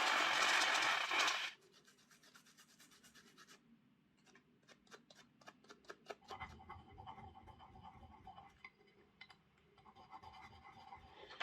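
Bench cleaning of a Hornby OO gauge model locomotive. A loud steady hiss lasts the first second and a half, then faint scratching and light clicks of small parts being handled.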